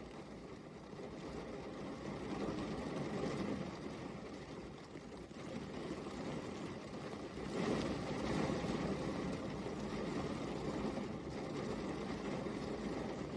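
Steady rain falling, an even hiss and patter that swells briefly about two-thirds of the way through.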